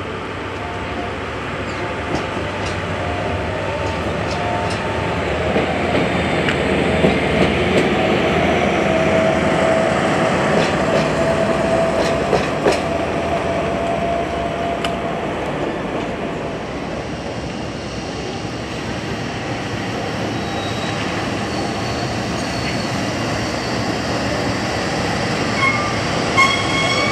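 A train running past on the rails, wheels clicking over the rail joints, with a drawn-out wheel squeal in the middle as the sound swells and then eases off.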